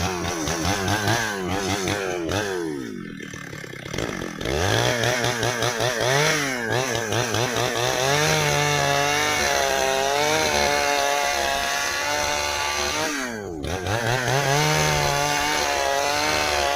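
Stihl chainsaw cutting dry ipê hardwood, the engine's pitch wavering under load as the chain bites. The revs fall off and dip about three seconds in, then climb back up, and drop briefly again near the end before rising once more.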